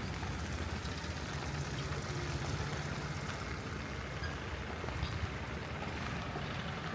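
Steady rain falling in a city street, with a constant low rumble underneath and faint scattered drop ticks.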